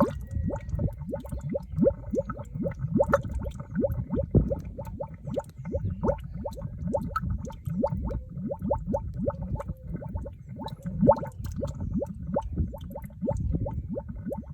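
Mud bubbling and popping at a mud volcano vent as gas escapes through it: a continuous string of wet pops and gurgles, several a second, over a low rumble.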